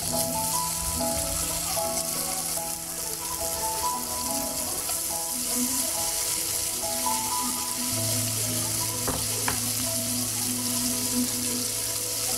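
Squid pieces sizzling steadily as they fry in hot oil in a nonstick pan, with soft melodic background music.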